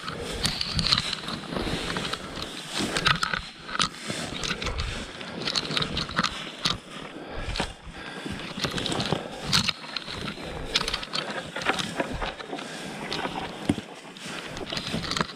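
Thin lake ice cracking and scraping against an Alpacka packraft as it is paddled through, a dense, irregular crackle of small sharp snaps and scrapes.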